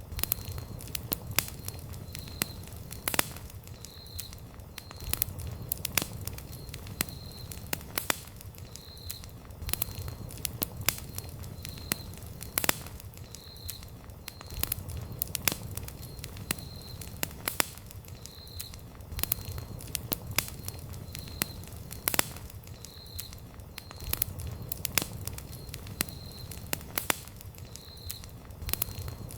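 Wood campfire crackling, with frequent sharp snaps and pops over a low rumble of the flames. A faint short high note repeats about once a second throughout.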